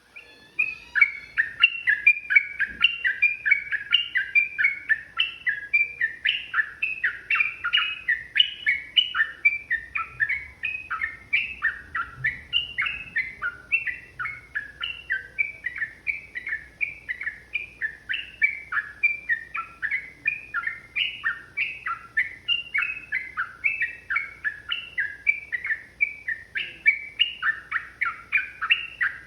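Yellow-vented bulbul (trucukan) singing a long, unbroken run of rapid bubbly chattering notes, about three to four a second.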